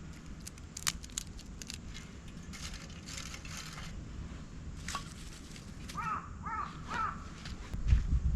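A bird gives three short calls in quick succession about six seconds in, over scattered light clicks and crackles.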